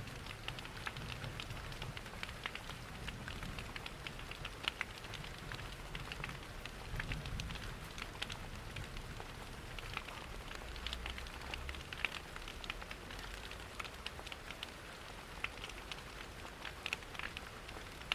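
Steady rain patter mixed with the crackle of a wood fire, many small snaps scattered throughout, over a low rumble.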